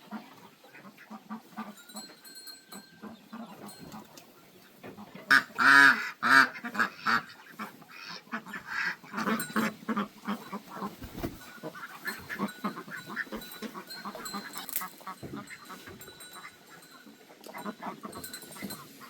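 Farmyard poultry calling: many short, repeated calls, with a run of loud honking calls about five to seven seconds in.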